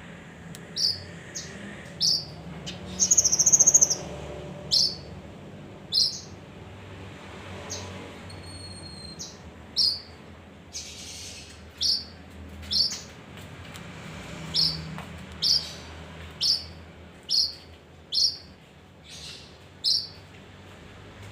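Male kinoi bird calling: short, sharp high chirps repeated about once a second, with one longer, buzzy warbled note about three seconds in that is the loudest.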